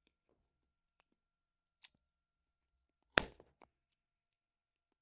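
Mostly quiet, with a few faint clicks and one sharp knock about three seconds in, followed by a smaller click.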